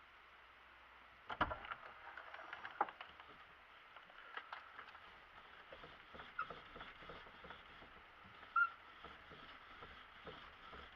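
UAZ Patriot steering wheel creaking as it is turned: a sharp knock and a click about a second and a half in, then an irregular run of short creaks and squeaks, with a louder squeak near the end. The creak comes from the brass horn contact under the wheel, worn down more on one side.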